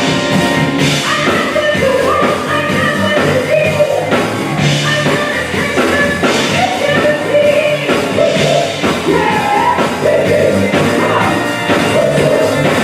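Live band playing a song, with a lead singer over a steady drum beat and low bass notes.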